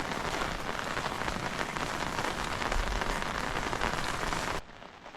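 Steady rain falling, a dense patter of drops hitting surfaces. About four and a half seconds in it drops suddenly to a much quieter hiss.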